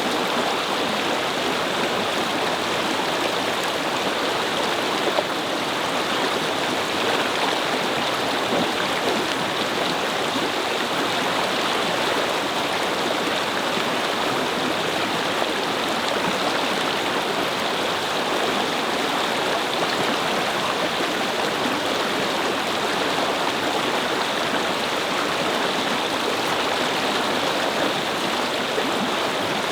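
A brook babbling steadily over stones, with an even rush of flowing water.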